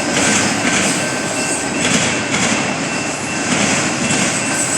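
Railroad cars rolling past close by: a steady rush of steel wheels on rail, swelling again and again, with a faint, thin, steady high squeal over it.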